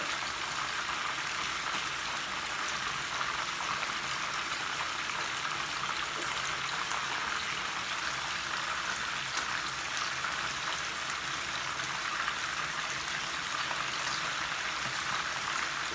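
Chicken pieces frying in oil in a pan: a steady sizzling hiss with a few faint crackles.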